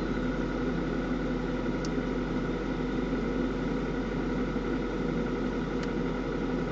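2003 Ford Focus ZX5's 2.0 Zetec four-cylinder idling steadily cold, just after a hard start at −18 °C, with a steady whine over the engine note of the kind the owner puts down to the power steering.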